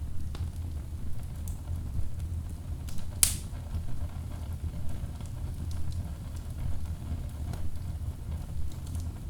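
Wood fire burning in a fireplace: a low, steady rumble of flames with scattered small crackles, and one sharp, loud pop a little over three seconds in.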